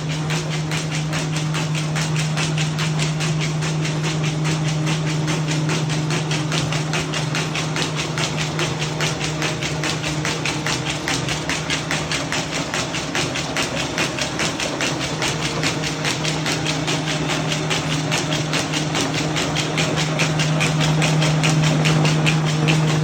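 A machine running steadily: a constant low hum with a fast, even clicking over it, growing a little louder near the end.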